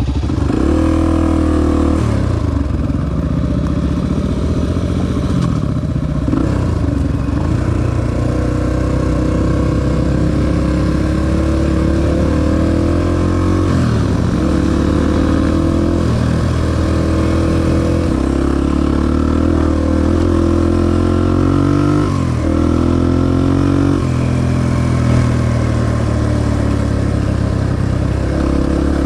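Honda XR250 dirt bike's single-cylinder four-stroke engine under way on a trail, its pitch repeatedly climbing under throttle and then dropping sharply, as at gear changes or when the throttle is rolled off.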